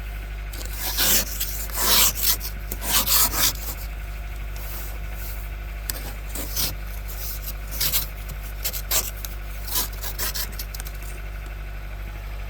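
Irregular rasping scrapes, some loud and some faint, over a steady low hum.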